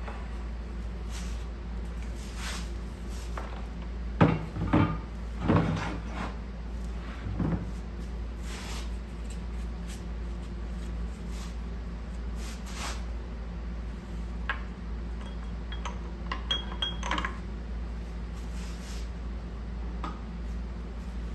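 Metal tools and engine parts clinking and clanking during hands-on engine teardown, with a cluster of louder knocks about four to six seconds in and a brief metallic ring later on, over a steady low hum.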